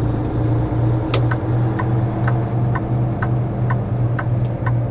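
Truck's diesel engine running with a steady, slightly pulsing low drone inside the cab. About a second in, a sharp click, then a turn-signal flasher ticking evenly about twice a second.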